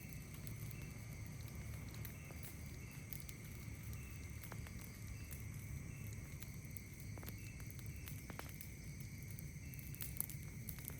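Faint campfire crackling, a few sharp pops scattered through, over a steady high drone of night insects and a short high chirp repeating about every two-thirds of a second. A low steady rumble runs underneath.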